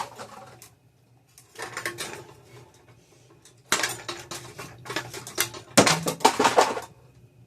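Hard clattering and rattling of the pieces of a smashed ceiling fan, in about five separate bursts, the loudest near the end. A faint low hum runs underneath.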